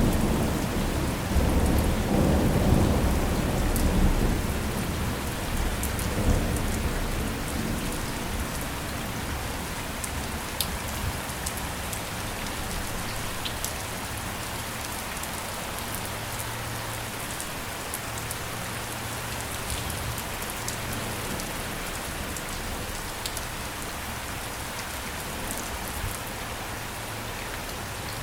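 Steady rain falling, with scattered sharp drop ticks. A low roll of thunder dies away over the first several seconds.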